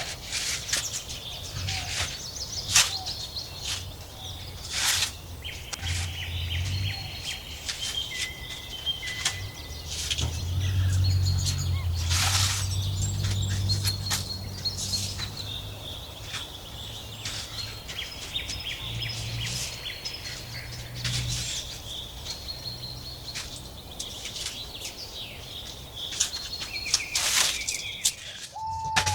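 Birds chirping and calling, with sharp clicks among the calls and a low rumble underneath that swells between about ten and fourteen seconds in.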